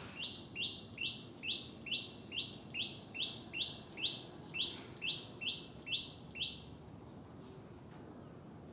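A bird calling one short, high note over and over, about fifteen times at two or three a second, then falling silent.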